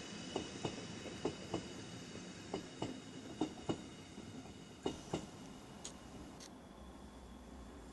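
Red Rhaetian Railway passenger coaches rolling away along the track, their wheels clicking over the rail joints, mostly in pairs about a quarter second apart. A steady high whine runs under the clicks, and both fade as the train recedes, the whine dying away about six seconds in.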